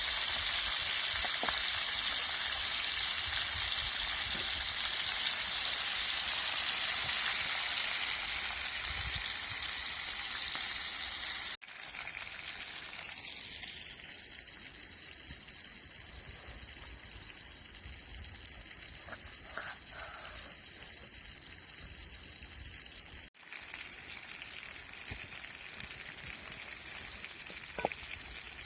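Silver carp frying, a steady sizzling hiss. It breaks off abruptly twice and comes back each time at a different level, quieter after the first break and a little louder after the second.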